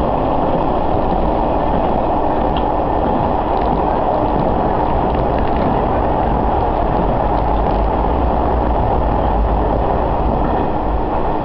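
Diesel railcar running along the line, heard from inside the car: a steady rumble with rattling from the carriage.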